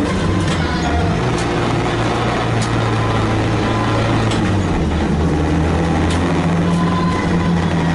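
Renault Clio 2 RS engine running steadily, its pitch lifting a little about a second in and settling back around four and a half seconds, with scattered faint clicks or rattles: the unwanted noises the owner is trying to track down.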